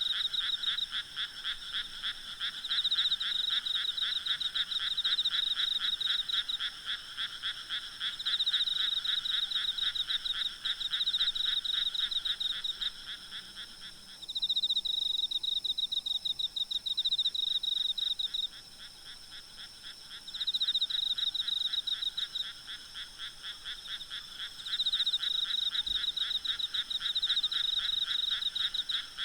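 A chorus of frogs calling in rapid pulsed trills, in overlapping bouts. The lower-pitched calling stops about halfway through, leaving only the higher trills coming and going. Faint steady insect chirring sits above.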